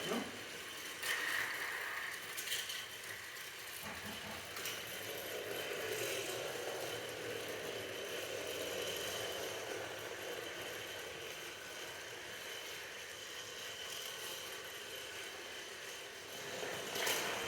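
Steady running noise and rattle of a moving train, with a few sharp clicks in the first five seconds.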